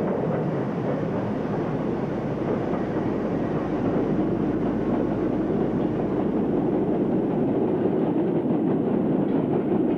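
Stanier Class 8F steam locomotive hauling a freight train, a steady rumble of the train running with wheels clattering on the rails.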